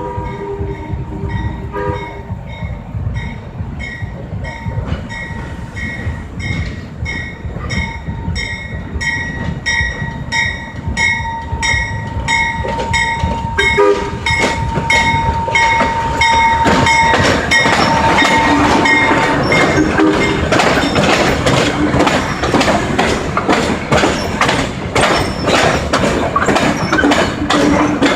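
A train horn sounds and cuts off about two seconds in. Then a bell rings at a steady beat while the train draws near, and from about halfway the clatter and rumble of its wheels on the rails grows loud as it rolls past.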